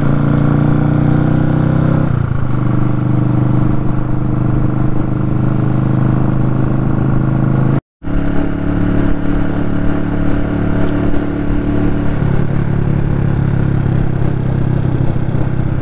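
Motorcycle engine running steadily under way at highway speed, with wind rumble on the helmet-mounted microphone. The engine note changes pitch about two seconds in and again near twelve seconds. The sound cuts out for a moment about eight seconds in.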